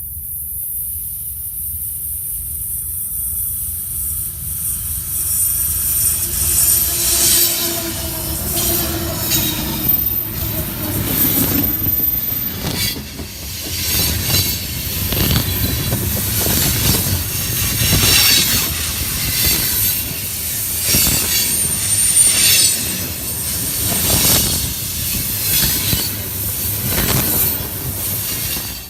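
Train passing close by: it grows louder over the first several seconds, then the cars roll past with repeated clacks over rail joints and brief high-pitched wheel squeals.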